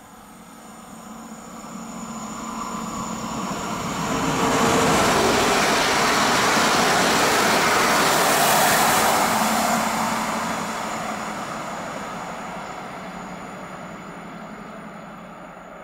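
A pair of coupled Newag Impuls EN63A electric multiple units passing a station platform. The rolling rumble builds as the train approaches, is loudest as it goes by, then fades away as it recedes.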